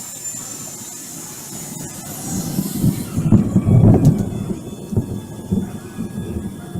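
Deep rumbling thunder with a few sharp cracks, swelling about two and a half seconds in and easing off toward the end.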